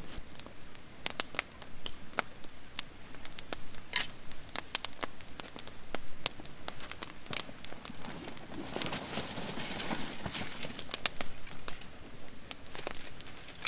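Wood fire crackling, with irregular sharp pops and snaps throughout and a louder stretch of rustling noise about nine to ten seconds in.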